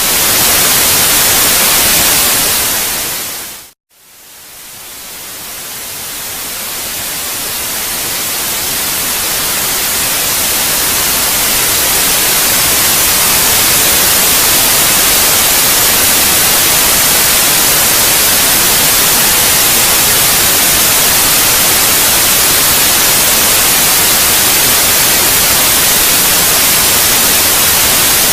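Steady white-noise hiss for baby sleep, heaviest in the high end. About four seconds in it fades out to a brief silence, then fades slowly back up to a constant level.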